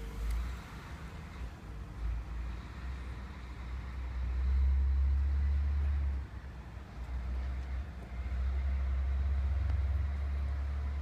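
Low rumble of a motor vehicle, swelling louder about four seconds in and again about eight seconds in.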